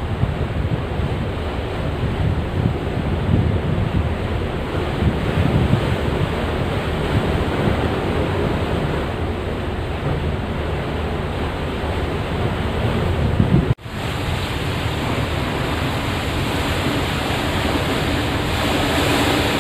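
Steady rushing of wind on the microphone over the wash of the sea, with no distinct tones or knocks. The sound drops out for an instant about fourteen seconds in.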